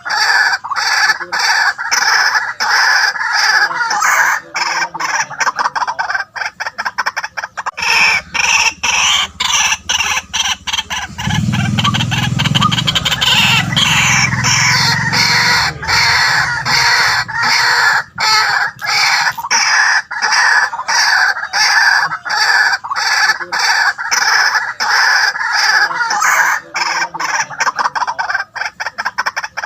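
White-breasted waterhens calling: a continuous run of rapid, repeated harsh notes. A lower-pitched sound joins in between about 11 and 15 seconds in.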